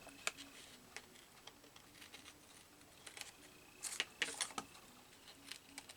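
Scissors snipping through paper: faint scattered clicks, with a brief cluster of cuts about four seconds in.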